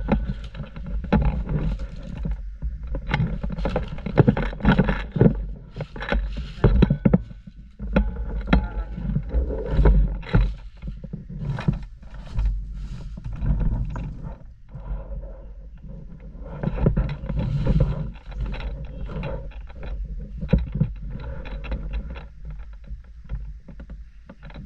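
Irregular rustling and knocking close to the microphone, with a steady low rumble underneath.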